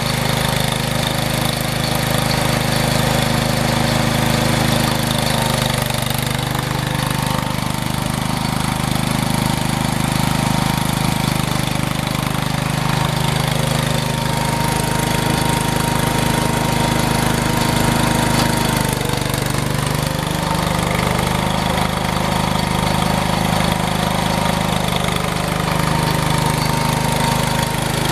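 Engine of a snow-clearing machine running steadily, its pitch dipping and recovering a few times as the load or throttle changes.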